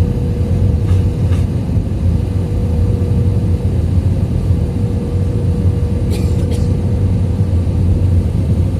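Steady cabin noise of an Airbus A320-200 in flight: a loud, even low rumble of the engines and airflow with a steady hum over it, and a couple of faint clicks about a second in and again about six seconds in.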